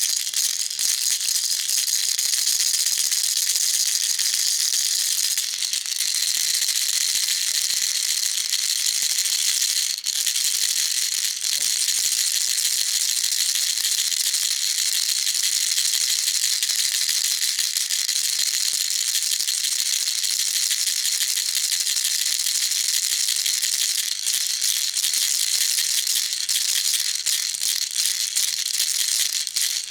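Baby rattle shaken continuously: a dense, fast, high rattle of small beads inside, with no pauses; its tone shifts slightly about five seconds in.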